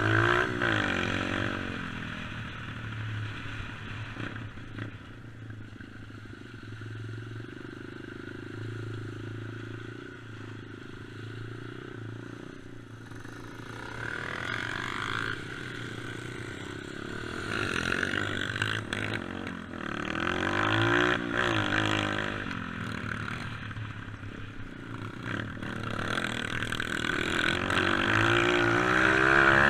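Dirt bike engine running and revving, its pitch climbing and dropping several times as the throttle is opened and eased off, with the loudest surges at the start, in the middle and near the end.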